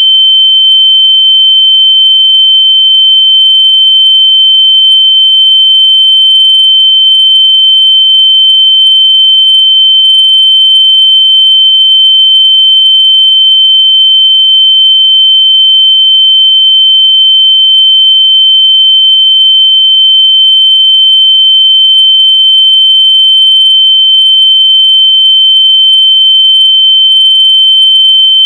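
A loud, steady, high-pitched electronic tone, a single pure pitch held without a break or change.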